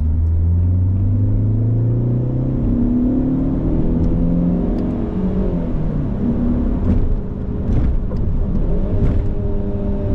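Alfa Romeo 147 2.0 Twin Spark 16-valve inline-four accelerating hard, heard from inside the cabin. Its pitch climbs for the first few seconds, falls back about three seconds in, then climbs again.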